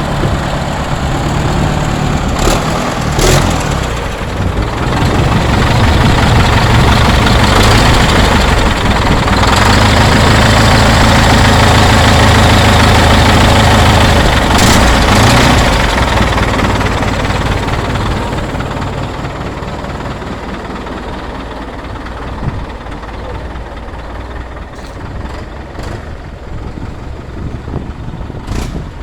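Caterpillar 950C wheel loader's diesel engine running. It grows louder from about five seconds in, holds there for about ten seconds, then eases back down toward idle, with a few sharp knocks along the way.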